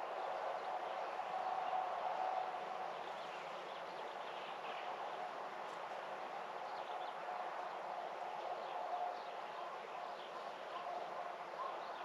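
Outdoor morning ambience: faint, scattered bird chirps over a steady background hiss, with a faint hum that comes and goes.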